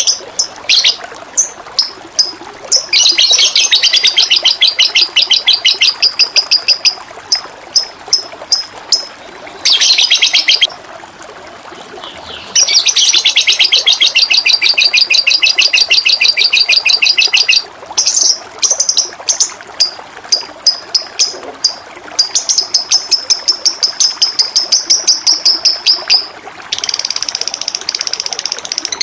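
A songbird singing long, very fast high trills, several seconds each, with short single chirps in between, over a steady rush of flowing water.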